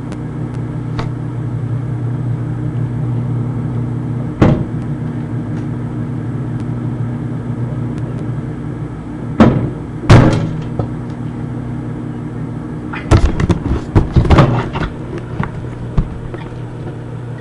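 Microwave oven running with a steady low hum, broken by sharp pops and knocks: single ones at about four, nine and ten seconds in and a quick cluster a few seconds before the end. The hum cuts off at the end.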